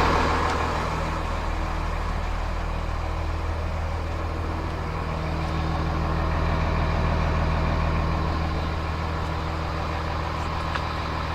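Cummins ISC 8.3-litre turbo diesel of a school bus idling steadily. A louder noise dies away in the first second, and the level swells slightly a little past the middle.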